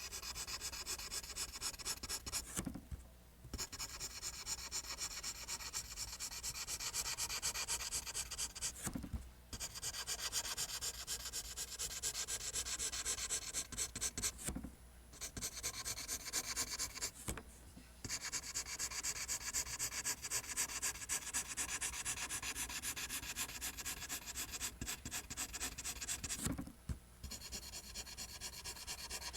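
Pencil drawing lines on paper: a continuous scratchy rubbing of rapid strokes, broken by five short pauses.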